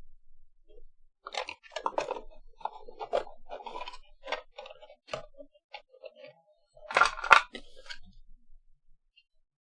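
Hard plastic parts of a toy drum kit being handled and pushed together: scattered clicks, rattles and scrapes, with the loudest clatter about seven seconds in.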